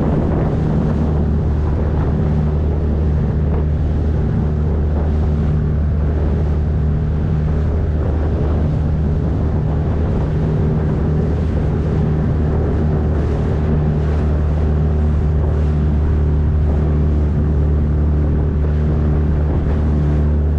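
A 9.8 hp outboard motor running steadily under way at a constant speed, with wind on the microphone and water rushing along the hull.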